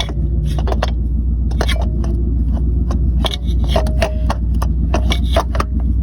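Repeated short metal clicks, knocks and scrapes as a replacement starter motor is worked sideways into place under the car, over a steady low hum.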